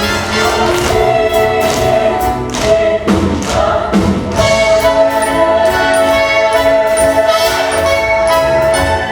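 Orchestral show music with brass, playing long held chords over a steady beat.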